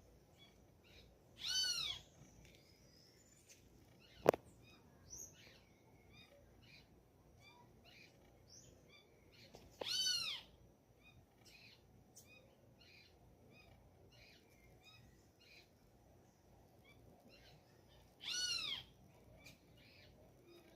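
A bird gives a loud, arching call three times, about eight seconds apart, over faint, scattered chirps from other birds. A single sharp click comes about four seconds in.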